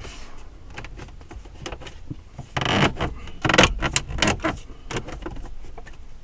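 Plastic dash bezel being worked back into place around the radio: irregular clicks, knocks and scraping of plastic trim, busiest about halfway through, a snug fit.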